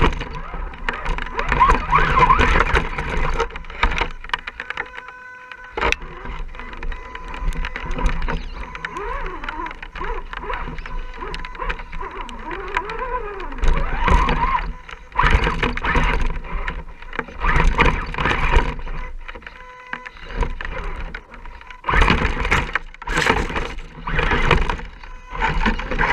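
Radio-controlled scale crawler truck driving over rough ground: its electric motor and gears whine in uneven bursts, rising and falling in pitch, with the tyres crunching and scraping over rocks and dirt.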